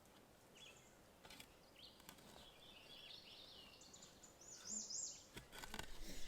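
Faint birdsong: a run of high chirps from about two seconds in, with short arched notes near the end. There are a few soft clicks, and a low rumble comes in near the end.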